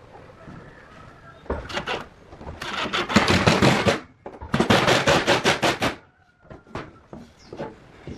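Two runs of rapid knocking, each lasting about a second and a half, with a few single knocks before and after.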